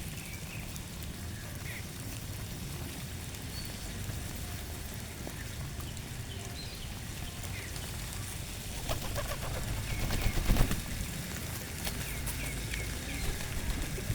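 Small birds chirping in short, scattered calls over a steady low rumble, with a burst of sharp clicks and fluttering about nine to eleven seconds in, the loudest part.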